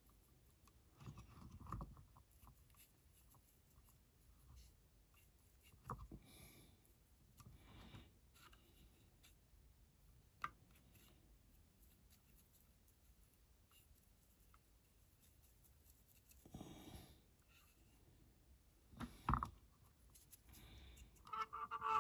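Faint scratchy brushing with scattered small rubs and taps a few seconds apart: a paintbrush working paint onto a small diecast metal casting, and the model and tools being handled. A single sharp click comes about ten seconds in.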